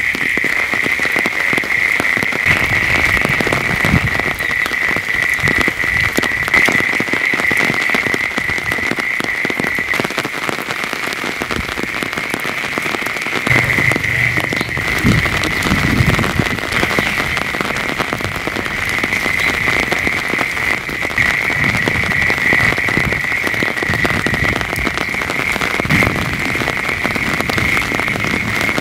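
Heavy rain falling on leaves and standing water: a dense patter of countless drops. A steady high-pitched drone runs alongside it.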